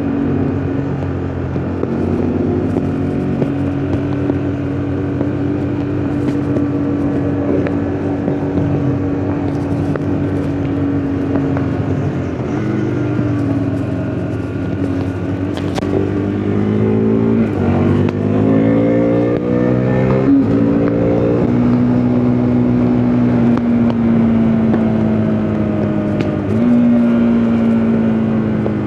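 KTM RC 390's single-cylinder engine running under way at a steady pitch. About halfway through it accelerates hard, with three or four rising sweeps, each cut off by a drop in pitch at a gear change, then settles to a steady pitch again.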